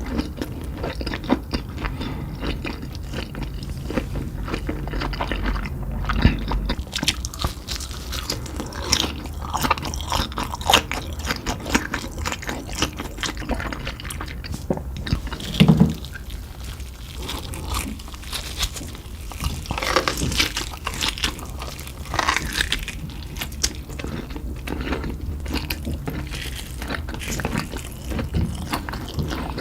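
Close-up eating sounds: repeated crunchy bites and chewing of crispy Cheetos-coated fried meat fingers.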